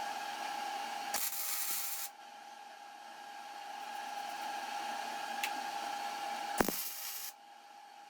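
Workshop hand-tool noise: a steady whine, with two short bursts of rasping, scraping sound, one about a second in and one near the end, each starting with a click.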